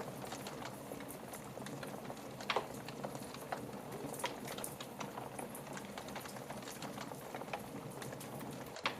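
Fire crackling in a fireplace: a steady hiss scattered with sharp pops. The loudest pops come about two and a half seconds in and again near the end.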